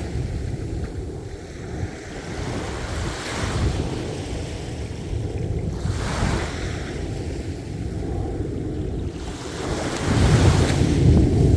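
Ocean waves breaking on the shore: a steady wash of surf that swells with a new breaker every few seconds, the loudest one coming near the end.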